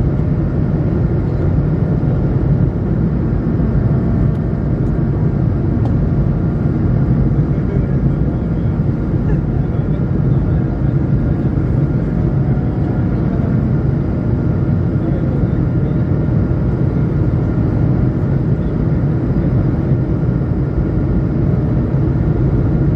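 Steady airliner cabin noise inside an Airbus A220-100: a deep, even rumble of its Pratt & Whitney PW1500G geared turbofans and airflow, with faint steady whining tones above it.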